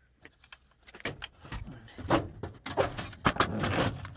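Irregular clicks, knocks and short scraping sounds from a pool cue shaft and a hand tipper trimmer being handled and worked, with the densest scraping in the second half.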